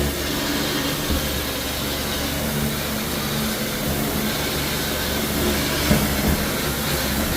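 Pressure-washing equipment for tile and grout cleaning running, a steady low hum under an even hiss.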